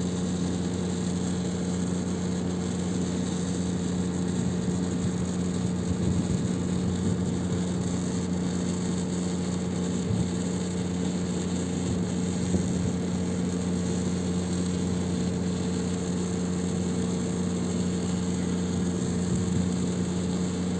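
High-voltage equipment energised at a 515 kV test voltage, giving off a steady hiss over a constant electrical hum.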